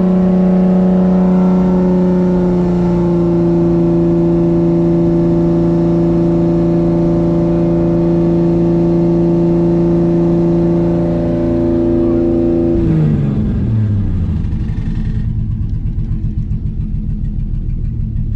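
Big-turbo Toyota JZ-series inline-six in a Lexus IS300, held at a steady raised rpm with no load while its ECU auto-tunes. It eases down slightly a couple of seconds in. About thirteen seconds in the revs fall away to a loud, lumpy idle, which is pretty loud inside the garage.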